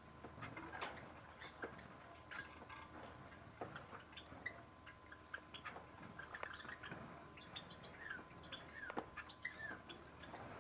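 Aviary birds chirping: many faint short chirps and down-slurred calls, scattered and overlapping.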